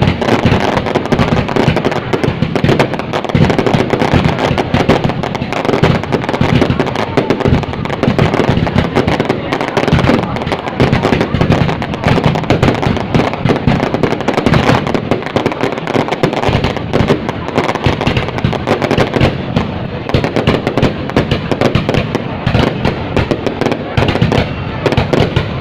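Fireworks going off in a dense, unbroken crackle of rapid bangs and pops.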